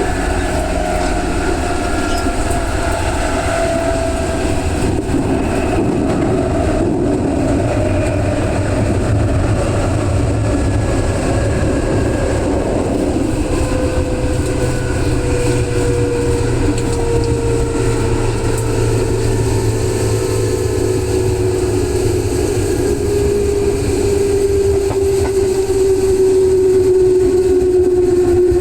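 Electric commuter train running on the rails, heard from on board, with the traction motors' whine falling steadily in pitch through the second half as the train slows.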